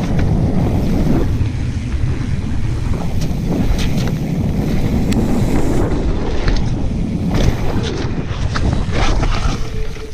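Wind buffeting the microphone over the steady low rumble of a mountain bike's tyres on a dirt trail, with sharp clicks and rattles from the bike every so often.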